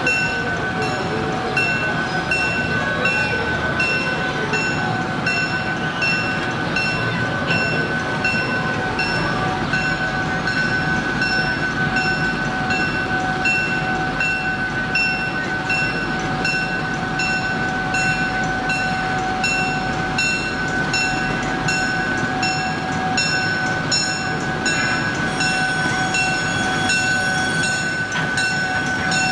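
Train with the Thomas the Tank Engine locomotive running, with a bell ringing steadily about twice a second and a steady high hum throughout.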